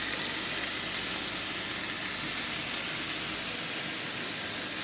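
Thick New York strip steak sizzling steadily as it cooks, a continuous high hiss.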